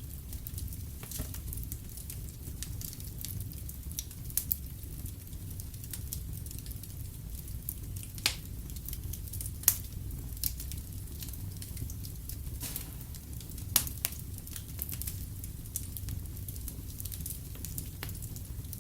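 Wood fire crackling in a fireplace: a steady low rumble of flames with scattered sharp pops, the loudest about eight, ten and fourteen seconds in.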